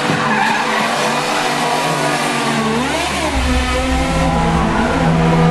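Drift cars' engines revving hard through a corner, their pitch swinging up and down with the throttle, with a deep low rumble joining about two and a half seconds in.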